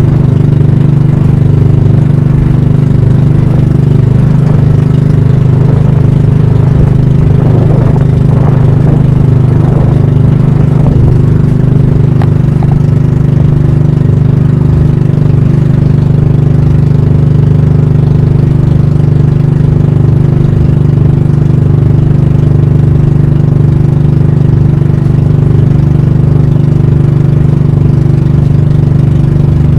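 Pump boat (banka) engine running steadily at a constant speed.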